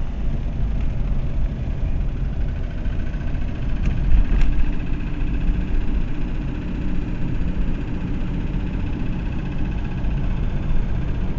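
Car interior noise while driving: a steady low engine and road rumble, with a faint high whine and two light clicks about four seconds in.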